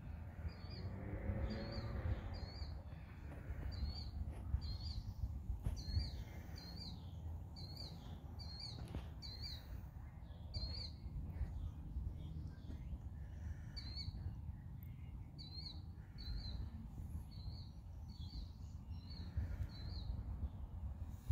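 A small bird calling outdoors with short, high chirps, about one and a half a second, pausing for a couple of seconds midway, over a low background rumble.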